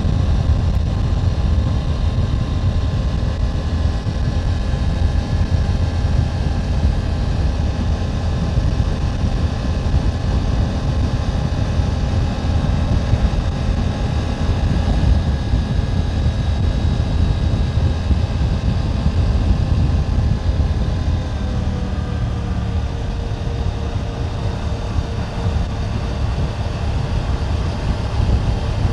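Riding noise from a 2024 Triumph Tiger 900 GT Pro: its inline three-cylinder engine running at a steady road pace under a heavy low rush of wind on the microphone. The engine's tone shifts lower about three-quarters of the way through.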